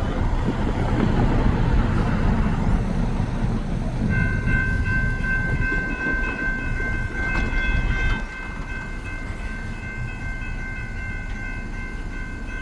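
BNSF freight train approaching with a heavy low rumble. From about four seconds in its horn sounds as one steady, long chord that holds to the end. The rumble drops noticeably about eight seconds in while the horn carries on.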